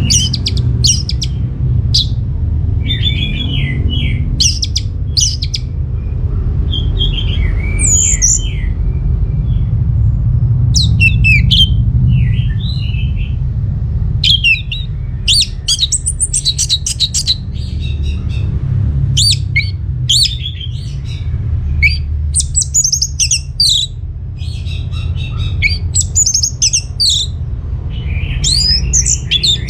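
Orange-headed thrush singing: a run of short, varied phrases of quick high whistles, chatters and trills, one after another with brief pauses, over a steady low rumble.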